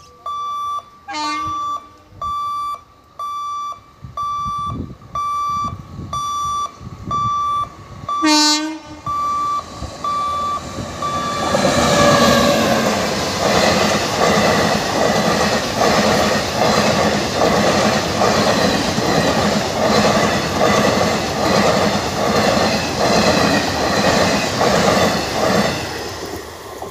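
Level-crossing warning beeper sounding a steady repeating beep, a little over one a second, until about ten seconds in. A train horn blows two short blasts, one about a second in and a louder one about eight seconds in. From about twelve seconds a passenger train runs past close by, its wheels clattering rhythmically over the rail joints, and fades away near the end.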